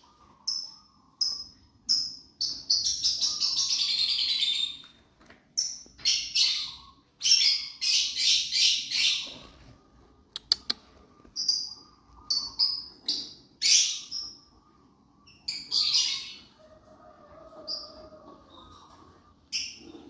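Lovebirds chirping and chattering: short, high single chirps mixed with longer bursts of shrill, rapid chatter, coming again and again with brief pauses between.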